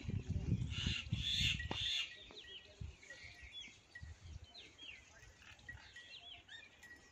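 Small birds chirping, short hooked chirps repeating every second or so. Over the first two seconds there is a louder low rumble with a burst of hiss.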